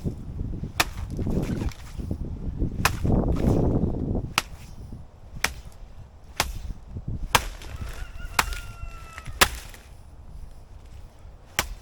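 Repeated sharp chops, roughly one a second, of a blade cutting up a felled banana plant, with rustling of the stalk and leaves between the early strikes. A short, steady-pitched bird call sounds about eight seconds in.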